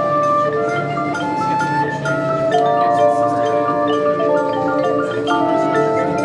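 Marching band playing, with the front ensemble's mallet percussion (marimba, xylophone and bells) striking quick notes over held chords.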